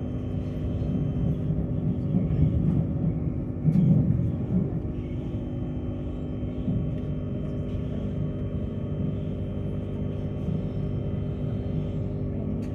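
Inside a passenger carriage of the Tilt Train while it is moving: a steady low rumble of wheels and running gear under a constant electrical hum. A louder bump about four seconds in.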